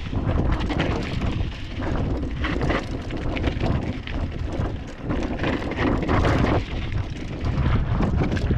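Wind buffeting the microphone on a mountain bike riding downhill, with tyre noise on a dirt trail and irregular knocks from the bike over bumps.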